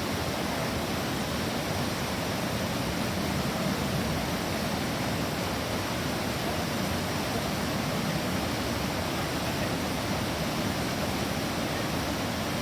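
A river's water rushing steadily, an even, unbroken wash of sound.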